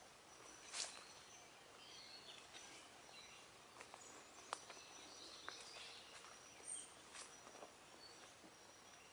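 Near silence: faint outdoor ambience with distant birds chirping now and then and a few soft clicks.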